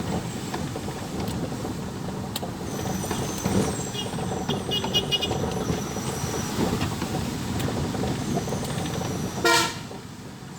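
Road traffic with vehicle engines running. A run of quick high-pitched beeps sounds around the middle, and one short, loud horn toot comes near the end.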